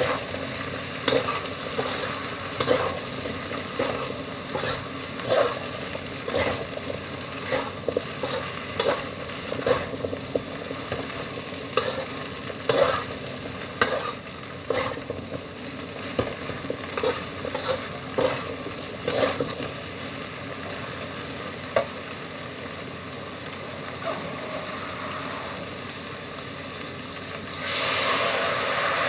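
Spatula scraping and tossing vegetables in a wok over a steady frying sizzle, the strokes coming roughly every second. The stirring stops about two-thirds of the way through, leaving the sizzle, which suddenly gets louder near the end as the contents of a bowl are tipped into the hot wok.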